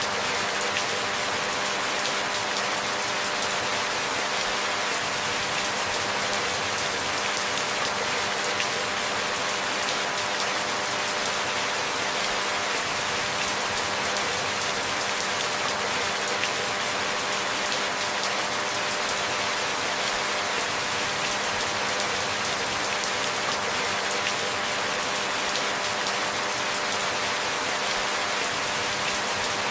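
Steady rain falling: an even hiss made of many small, close-spaced drop ticks, with no change in strength.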